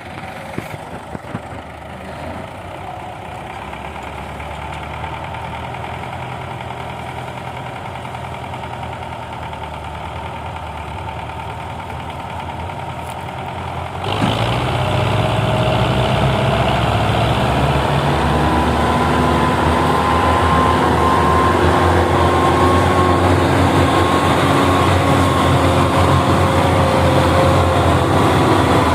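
Belarus 510 tractor's diesel engine running steadily at low speed, then about halfway through the throttle opens and it runs markedly louder and stays there.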